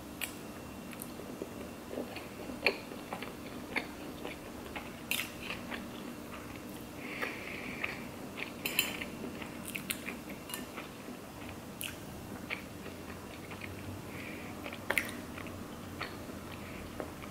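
A person chewing a mouthful of sushi roll, with scattered wet mouth clicks and smacks.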